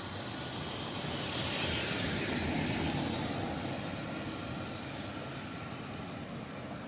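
A passing vehicle: a broad noise that swells to a peak about two to three seconds in, then slowly fades.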